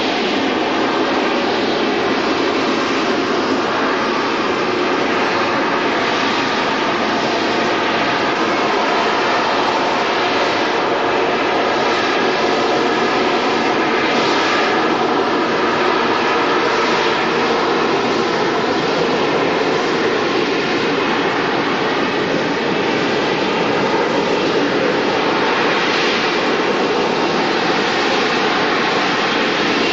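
Loud, steady jet aircraft engine noise, holding level with no clear rise or fall.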